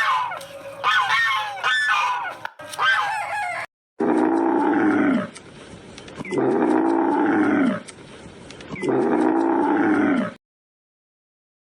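Animal calls: several short calls, then three long calls about two and a half seconds apart, each falling in pitch, ending abruptly.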